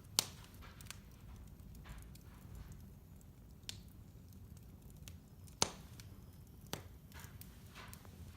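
Wood fire burning with a low steady rumble, broken by irregular sharp pops and crackles, the loudest just after the start and again about halfway through.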